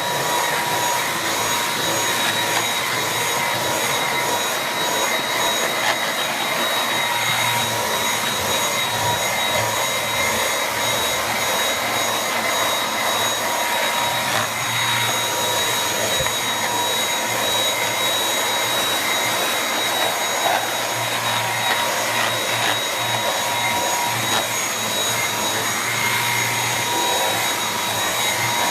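Dyson V8 cordless stick vacuum with its mini motorised brush head running steadily while vacuuming stairs, its motor giving a steady high whine.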